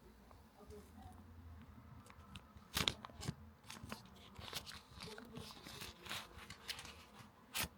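Packaging being handled close up: paper and plastic rustling and crinkling, with scattered sharp clicks, the two loudest about three seconds in and near the end.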